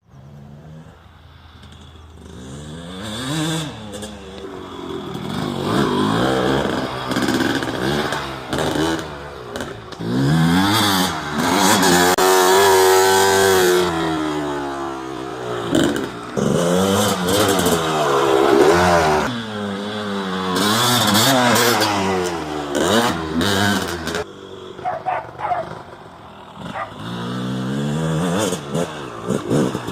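Dirt bike engine revving, its pitch rising and falling again and again as the bike is ridden around. It starts faint, gets louder and quieter in turn, and goes quieter for a few seconds near the end.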